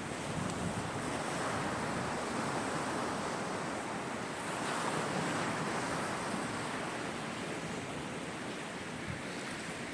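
Sea surf washing onto a shore: a steady rushing that swells gently and eases.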